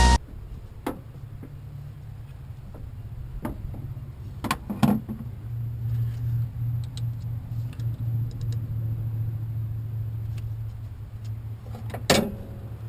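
Low, steady rumble of an idling vehicle engine, which grows somewhat stronger about five seconds in. Several sharp clicks and knocks come over it, with a louder knock near the end.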